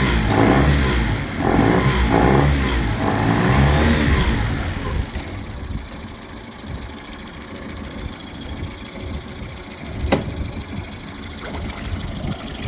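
Mercury (Yamaha-built) 9.9 hp four-stroke outboard motor being revved in several quick throttle blips, then dropping back to a steady idle about five seconds in; it runs without the choke after its carburetor was cleaned and tuned. A single sharp click comes near the end.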